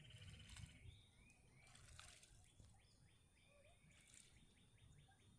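Faint bird calls: a few short rising chirps about a second in, then a quick trill of evenly spaced notes from about halfway to near the end, over low outdoor background noise.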